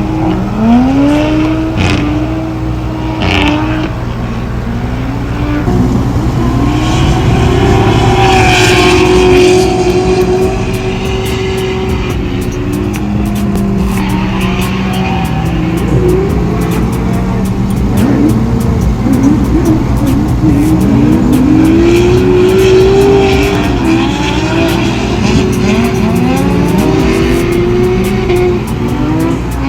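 Several drift cars running on track, their engines revving up and down again and again and overlapping one another, with bursts of tyre squeal from the sliding cars.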